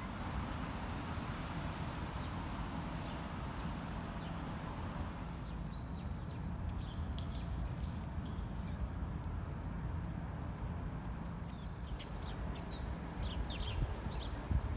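Birds giving many short, high chirps that start about six seconds in and grow busier toward the end, over a steady low rumble.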